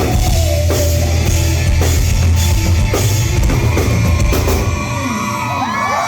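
Live rock band playing loudly, with a pounding drum kit and heavy bass. Near the end the band stops and the crowd starts cheering and whooping.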